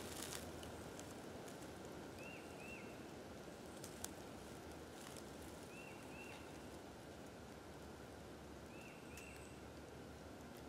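Faint woodland ambience with a bird calling in pairs of short arched chirps, a pair about every three seconds, and a single light tick about four seconds in.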